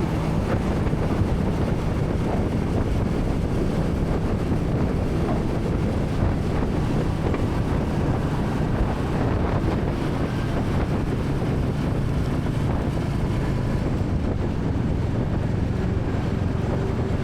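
Royal Enfield Classic 350's air-cooled single-cylinder engine running steadily while riding, with wind noise on the microphone.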